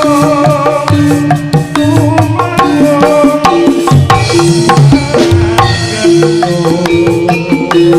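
Live Javanese Turonggo (jaranan horse-dance) ensemble music, with hand-drum strokes in a steady rhythm over repeating sustained melodic notes.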